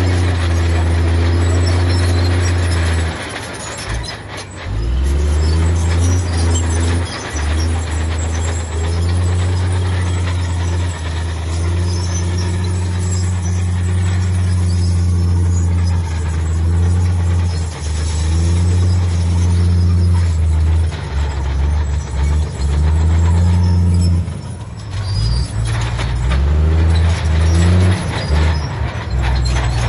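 Heavy diesel earthmoving machinery running under changing load. The engine note dips briefly and picks up again twice, with a noisy clatter over it.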